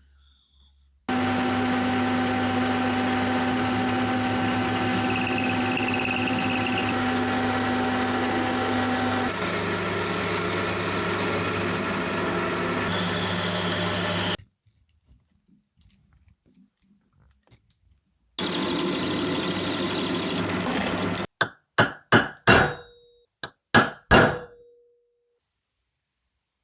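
A power tool runs steadily for about thirteen seconds, its tone shifting partway through, then stops. It runs again for about three seconds, and is followed by a quick series of sharp metallic-sounding knocks, one ringing briefly.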